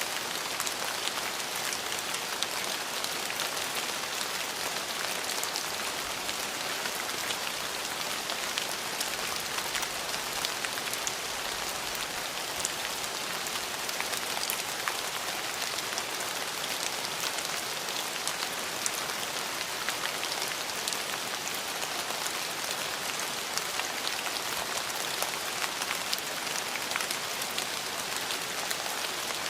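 Steady rain falling on hard surfaces, an even hiss with many small, distinct drop ticks.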